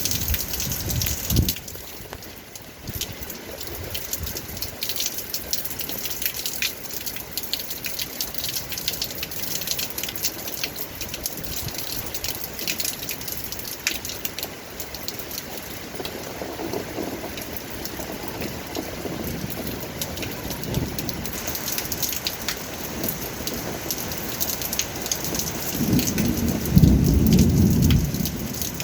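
Steady heavy rain pattering on surfaces, a dense crackle of drops. Deep low rumbles come and go in the second half, the loudest about two seconds before the end.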